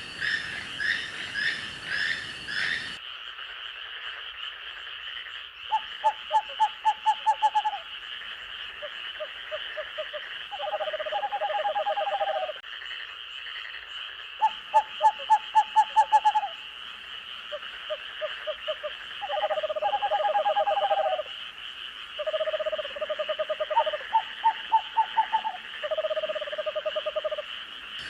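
Night forest chorus: frogs calling in short trains of rapid pulses, several voices answering one another, over a steady high-pitched insect drone. About three seconds in the sound changes abruptly, as at an edit.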